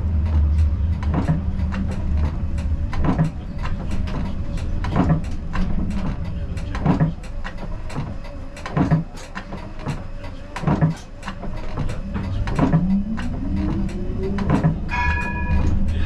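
Siemens Combino tram running over the rails with a steady low rumble, its wheels clicking sharply over rail joints and switches. Near the end a whine rises in pitch as the tram's motor picks up speed, followed by a brief electronic tone.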